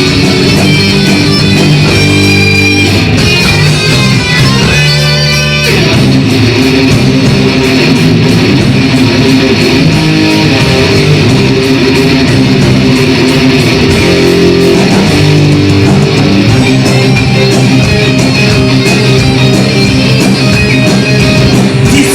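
Instrumental rock music led by electric guitar, with no singing.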